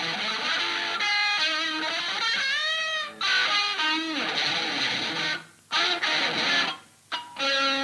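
Electric guitar from a hardcore punk recording, playing a jagged riff with notes bent up and down, stopping dead twice for a moment near the end before a held chord rings in.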